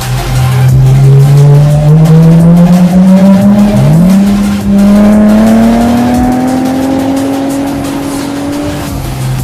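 Porsche Panamera engine accelerating hard, its pitch climbing steadily. About four seconds in it drops sharply with an upshift, then climbs again through the next gear until it backs off near the end.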